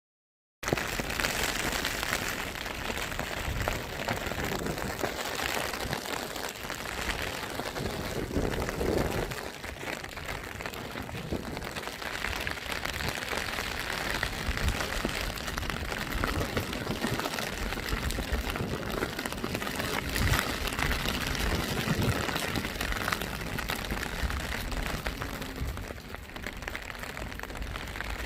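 Steady rain falling, a dense patter of drops that starts abruptly about half a second in.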